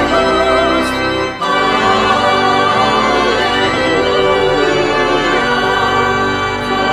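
Church organ music playing sustained chords, with a brief break about a second and a half in.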